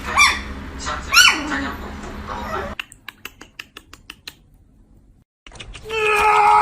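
A small dog or puppy gives two short, high yelps that rise and fall in pitch. A few light clicks follow. Near the end a loud, steady, different sound starts.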